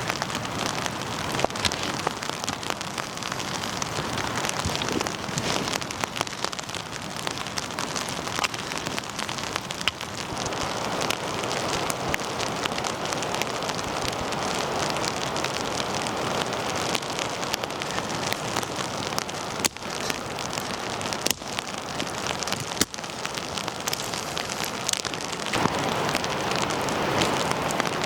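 Steady rain falling, a dense patter of drops with scattered louder single ticks.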